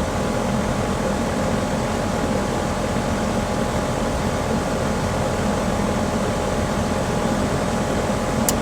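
Pool equipment running steadily, most likely the circulation pump motor: an even hum with a steady drone of fixed tones. A single brief click near the end.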